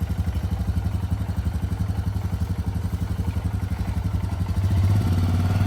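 Motorcycle engine running with a steady, fast, even pulsing beat, getting a little louder near the end.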